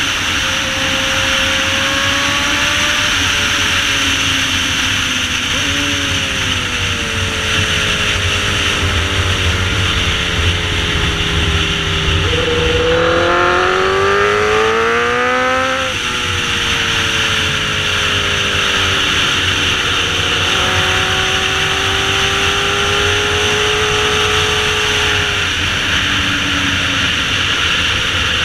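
Sportbike engine heard on board while riding, under heavy wind rush over the microphone. The engine note sinks and rises slowly, then climbs sharply in a rev-up about halfway through before dropping back.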